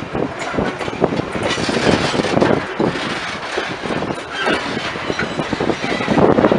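Loaded grain hopper cars of a long, slow freight train rolling past, their steel wheels rumbling over the rails with irregular clunks at the rail joints.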